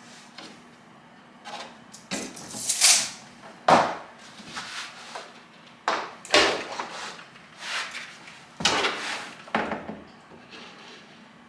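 A series of irregular knocks and scraping or rubbing sounds, several sharp and loud, with no regular rhythm.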